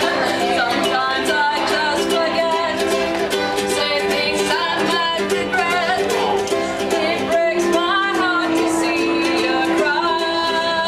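Music: a voice singing a melody over a strummed plucked-string accompaniment, part of a medley of love songs.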